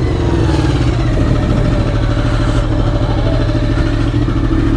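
Honda VFR750's V4 engine running steadily at low revs, with a slight dip in pitch just at the start.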